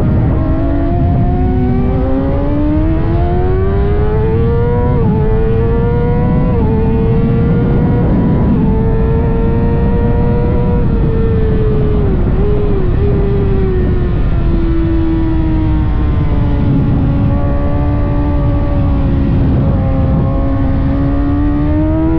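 600cc inline-four sport bike engine racing at high revs. Its pitch climbs with quick steps as it shifts up, holds, dips with short blips about twelve seconds in, sinks slowly, then rises again near the end, over heavy rushing noise.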